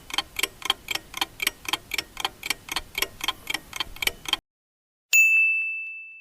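Countdown timer sound effect: a clock ticking evenly at about four ticks a second for some four seconds, then, about five seconds in, a single bell ding that rings out and slowly fades, marking the end of the thinking time.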